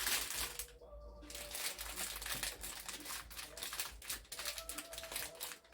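Irregular rustling and crinkling of plastic and packaging, with small clicks and knocks, as items are handled and sorted out of a box.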